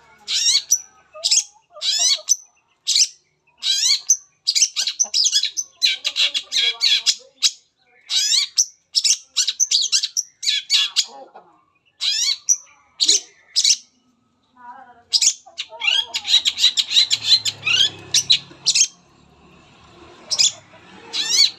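Long-tailed shrike (cendet) singing a rapid, varied song of harsh chattering notes and quick chirps, delivered in dense bursts broken by short pauses.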